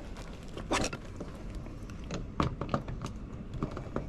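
Scattered light clicks and knocks from hand work, with a louder knock about a second in.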